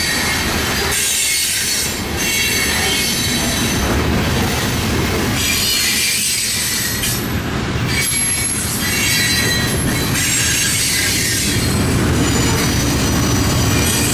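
Freight train cars rolling past, with steel wheels squealing against the rail in high, wavering tones over a steady rumble and some clickety-clack.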